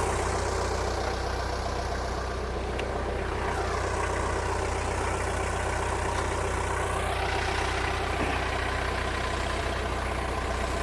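Forklift engine idling steadily while the load is held and lowered.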